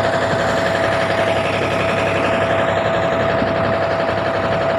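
Fishing boat's engine running steadily under way, a constant drone with a steady whine.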